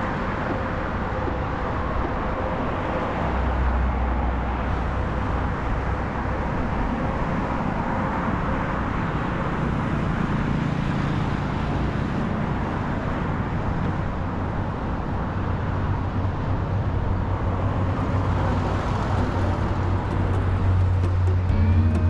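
Road traffic noise: cars passing on a busy street, a steady wash of engine and tyre noise with low rumble.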